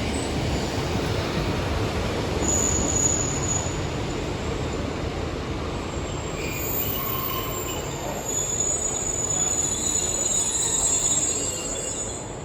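Passenger diesel multiple-unit train running through the station with a steady rumble. High-pitched wheel squeal grows stronger over the second half.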